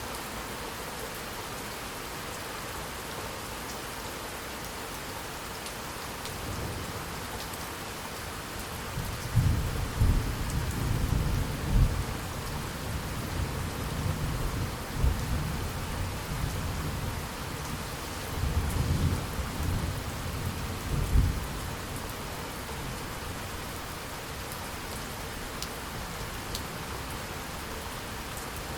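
Steady rain falling, with thunder rumbling in from about six seconds in, swelling into several deep low peals over the next fifteen seconds and then dying away, leaving only the rain.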